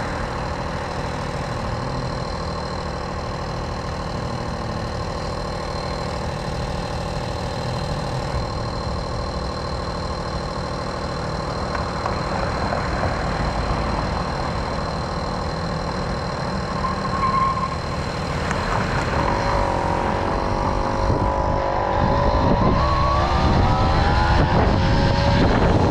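Tomos moped's small two-stroke engine running while being ridden. Past the two-thirds mark the engine pitch rises and dips several times as it speeds up, and it grows louder toward the end.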